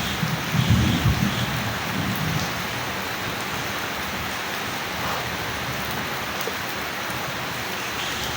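Steady rain with a low rumble of thunder in the first couple of seconds that dies away, leaving the even hiss of rainfall.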